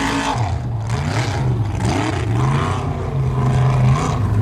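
Formula offroad racing buggy's engine revving hard, its pitch rising and falling repeatedly as the throttle is worked.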